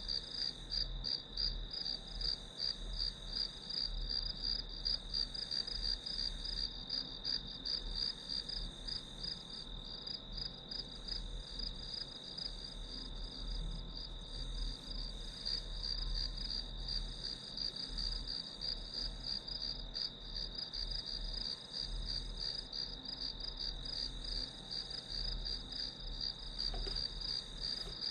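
Crickets chirping in a continuous chorus: a steady, high-pitched trill of rapid pulses, with a faint low rumble underneath.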